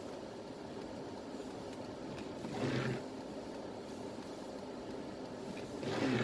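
Steady vehicle running noise with a short louder rush that recurs about every three and a half seconds, twice in this stretch.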